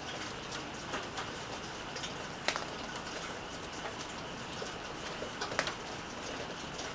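Steady rain with scattered drops tapping on a hard surface, two louder drips about two and a half and five and a half seconds in.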